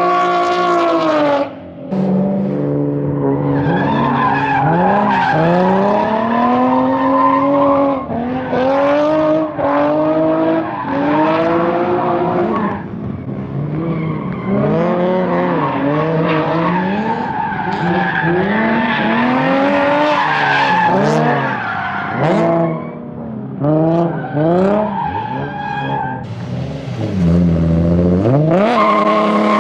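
Turbocharged Nissan VQ V6 drift car's engine revving up and down over and over in quick rising-and-falling sweeps as the car is drifted, with tyres squealing and skidding.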